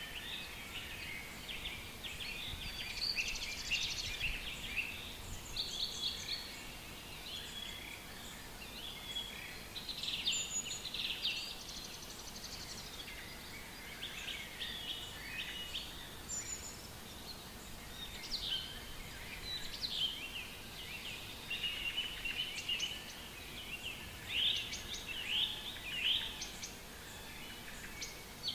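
Several songbirds singing in a forest, their chirps, trills and quick falling notes overlapping, busiest in the second half, over a faint low background noise.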